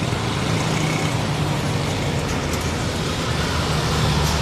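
Road traffic with a heavy vehicle's engine running steadily, a low engine drone under a constant wash of traffic noise.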